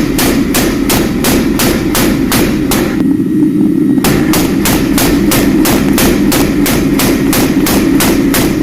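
Steel being hammered, about three evenly spaced blows a second, pausing for about a second partway through, over a steady low drone.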